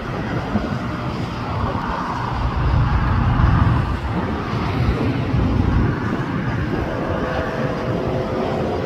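Jet noise of an Emirates Airbus A380 climbing out after takeoff: a steady low rumble from its four engines.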